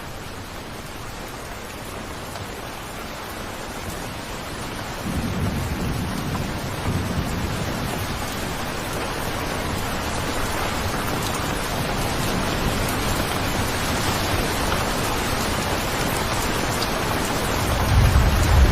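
Steady heavy rain, slowly growing louder, with low rolls of thunder: one rumble comes in about five seconds in and a stronger one near the end.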